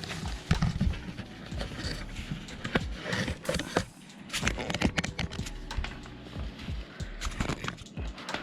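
Irregular clicks, taps and rustles of hands handling computer parts and cleaning supplies on a workbench.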